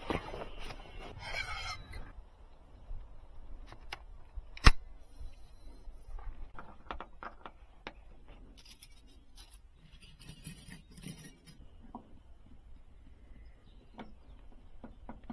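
Camp handling noises: scattered clicks, scrapes and rustling, with one sharp knock a little before five seconds in.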